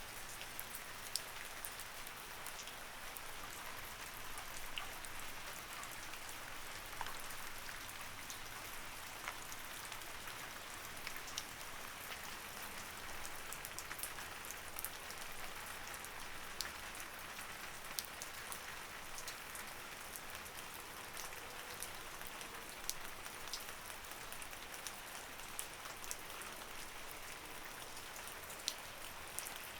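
Light rain falling steadily, a soft even patter with many separate drop ticks scattered throughout.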